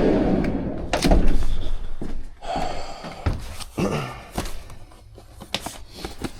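A bang about a second in, like a door or lid shutting, over loud rustling and handling noise, then scattered knocks and clicks of parts and boxes being moved about.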